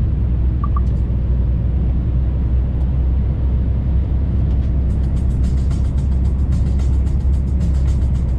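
Steady low drone of a truck cab on the move. From about halfway through, a dense run of fine clicks and ticks joins it.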